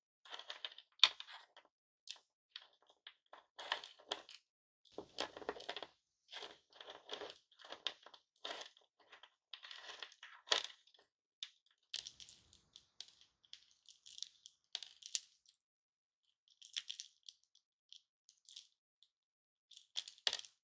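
Hard lollipop candy being crushed and handled: dense runs of short crackles and crunches, thinning out after about eleven seconds to sparser, lighter clicks.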